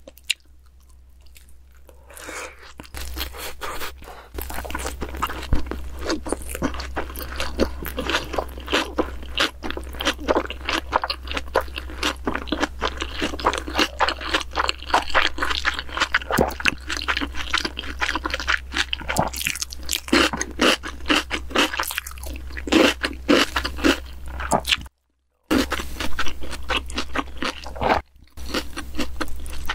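Close-miked chewing of a mouthful of salmon soy-sauce rice ball, with steady wet crunching and crackling that starts a few seconds in after a quiet moment. Near the end the sound cuts out briefly twice.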